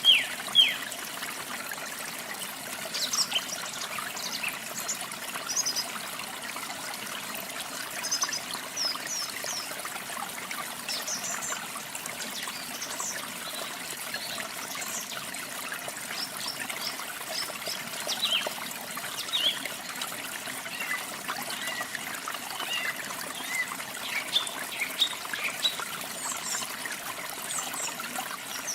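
Steady rush of running water with birds chirping over it in short, scattered high calls.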